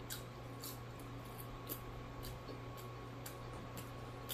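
A person chewing a mouthful of fried catfish close to the microphone, with short wet clicking chewing sounds about twice a second.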